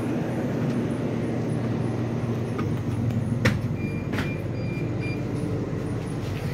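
Steady low rumble of an Indian Railways passenger train standing at the platform. About three and a half seconds in there is a sharp knock and then a smaller one, as feet land on the coach's metal vestibule floor plate, with a few faint short high beeps just after.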